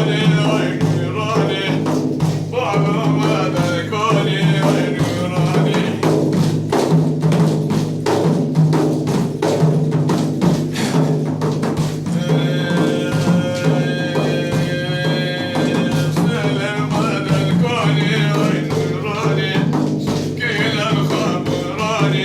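Arabic devotional praise singing (madh) by a male voice over steady drum accompaniment and a low drone. The melismatic vocal line gives way to drums alone in the middle, then a long held note, and the singing returns near the end.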